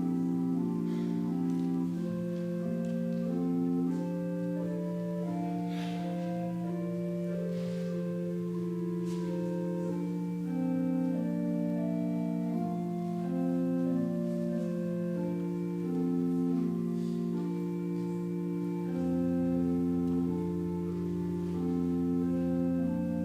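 Church organ playing a slow piece of offertory music: sustained chords move over a low note held throughout, and a deeper bass note comes in about nineteen seconds in.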